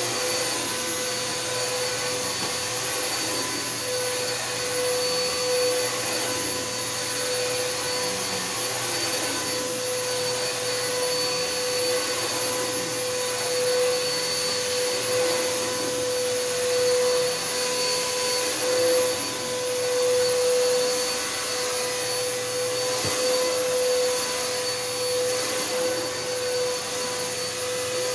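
Bissell Helix Power vacuum cleaner running steadily: a constant motor hum with a steady pitched tone over the rush of air.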